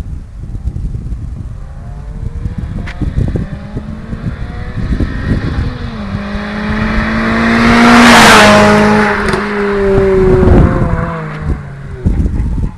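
Renault Clio RS 200 Cup's 16-valve four-cylinder, with a Friedrich cat-back exhaust and no front silencer, accelerating toward the microphone and passing it. The engine note climbs to its loudest about eight seconds in and then drops in pitch as the car goes away, with wind rumbling on the microphone throughout.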